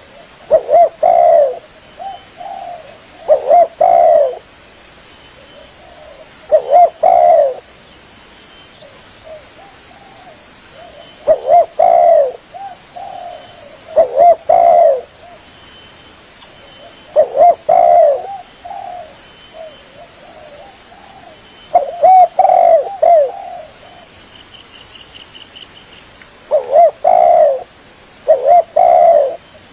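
Spotted dove (tekukur) cooing: short phrases of a few rolling coos repeated every few seconds, with fainter coos in between.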